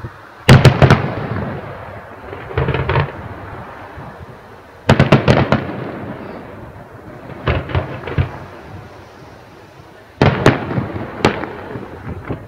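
Aerial fireworks bursting in volleys of several sharp bangs, each volley trailing off in echo. Three loud volleys come about half a second, five and ten seconds in, with quieter bursts between them.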